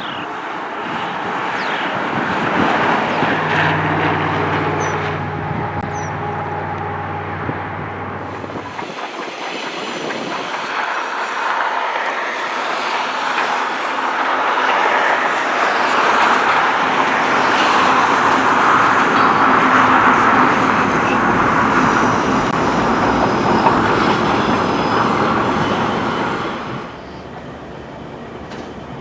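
A train rolling past, its wheels running on the rails. A low steady engine hum is heard for a few seconds near the start. The rail noise grows louder toward a peak and then cuts off abruptly near the end.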